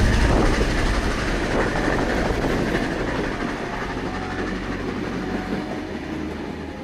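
Heritage passenger train rolling away along the track, carriage wheels clattering over the rails, the sound fading steadily as it recedes.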